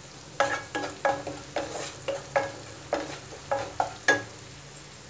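Wooden spatula scraping and stirring a spiced onion-ginger masala in a non-stick kadai, about two strokes a second, over a steady sizzle of the masala frying in oil. The strokes stop about four seconds in.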